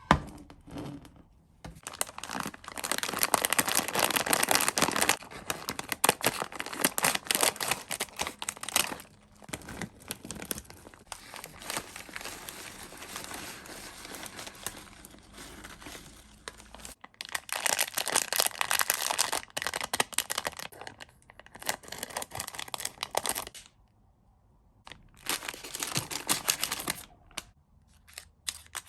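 Plastic sweet and chocolate wrappers crinkling and tearing open in several long crackly bursts, with short quiet pauses between them.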